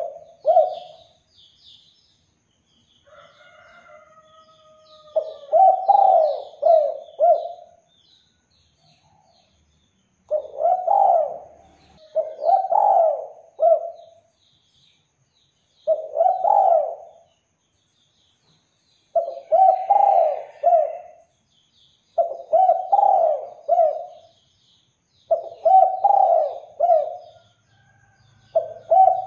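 Spotted dove (derkuku) cooing in repeated phrases of several notes, one every few seconds, with faint high chirps of small birds behind it.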